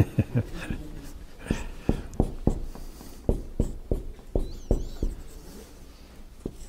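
Dry-erase marker writing on a whiteboard: a run of short, irregular taps and strokes as letters are drawn.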